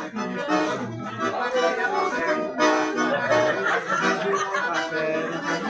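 Accordion (sanfona) playing forró-style festa junina music, with a steady run of chords and melody.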